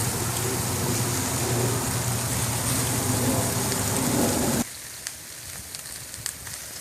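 Meat and fat sizzling over a wood fire: a dense, steady hiss that cuts off abruptly about four and a half seconds in to a quieter sizzle with scattered crackles and pops.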